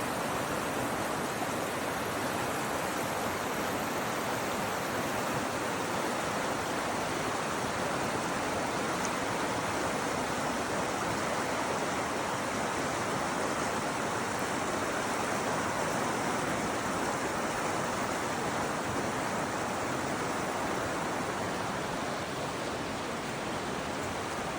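River water rushing steadily, an even unbroken wash of noise.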